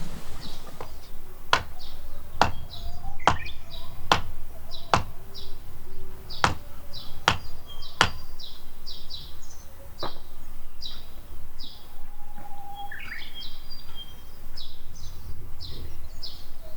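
A run of about nine sharp chopping knocks, roughly one a second, which stop about ten seconds in, under constant quick chirping of small birds.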